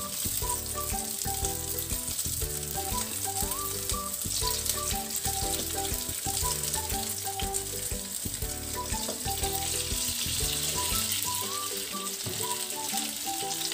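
Pieces of pumpkin-and-lentil cake sizzling steadily as they shallow-fry in hot oil in a frying pan, more pieces being added to the oil. A tune plays underneath the sizzle.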